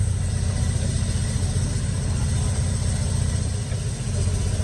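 An engine running steadily with a low, evenly pulsing rumble.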